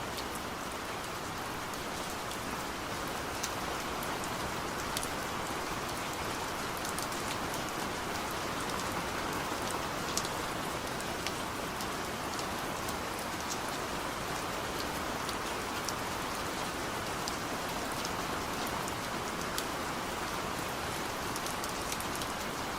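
Steady rain falling: an even hiss with scattered sharper ticks of single drops striking.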